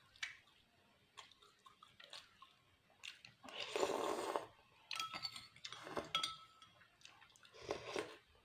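Close-up eating sounds: chewing, with scattered clinks of a utensil against a plate or bowl, and a louder noisy burst about three and a half seconds in.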